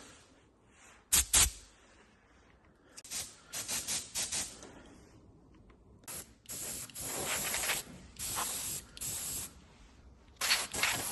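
Compressed air from an air-line blow gun, let off in a series of hissing blasts, some short and some about a second long, to blow dirt and loose debris out of an engine. The air runs out soon after.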